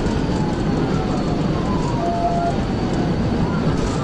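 Police car siren wailing, its pitch sliding up and down, over loud, steady road and engine noise from a cruiser at pursuit speed.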